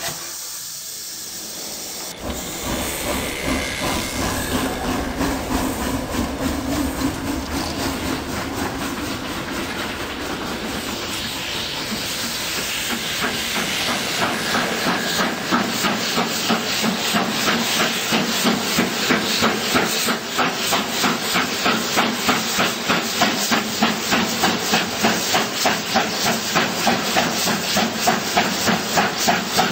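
Steam locomotive sound: a steady hiss with a regular beat of exhaust chuffs. The chuffs grow stronger and louder through the second half.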